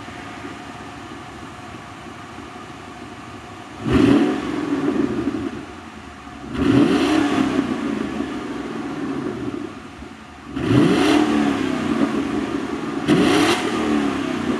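2004 Mercury Marauder's 4.6-litre DOHC V8 through its stock exhaust, idling and then revved four times, each rev a quick rise in pitch that settles back down toward idle.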